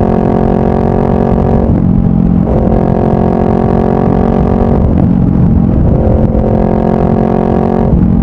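2018 Honda CBR500R's 471 cc parallel-twin engine running through a Yoshimura full exhaust system at steady revs while riding, with a deep rumble underneath. The tone dips briefly about every three seconds.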